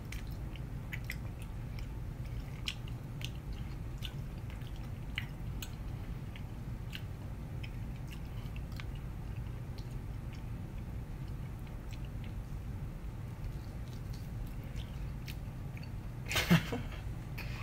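A person chewing a mouthful of New York strip steak close to the microphone, with faint, scattered wet clicks from the mouth over a steady low hum. A louder noise about a second before the end.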